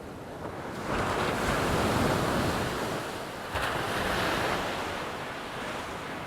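Ocean surf: two waves breaking, the first about a second in and the second at about three and a half seconds, each swelling into a rush of water and then slowly washing away.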